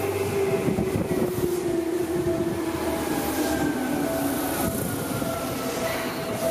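Yellow Seibu electric commuter train running past at close range, its wheels clattering over the rails under a steady rumble. A motor whine falls steadily in pitch throughout, and a steady wheel squeal from the curve comes in partway through.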